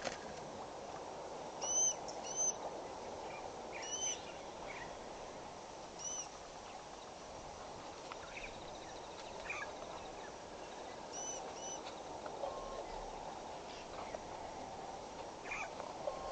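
Wild birds calling: short, arched chirps every second or two, some in quick pairs, over a steady background hiss.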